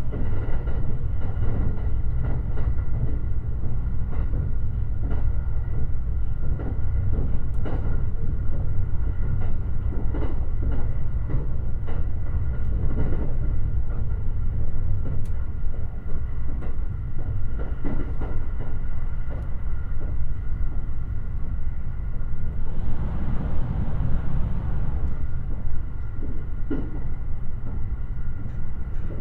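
Limited Express Shirasagi electric train running along the line: a steady low rumble of wheels on rail with frequent irregular knocks from the track and two faint steady whines. About 23 seconds in, a rush of noise swells briefly and fades.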